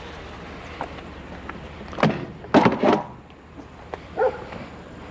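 A few sharp knocks and clatters of scrap items being handled and set down, about two seconds in and again just after, over a steady low hum. A short dog bark comes near the end.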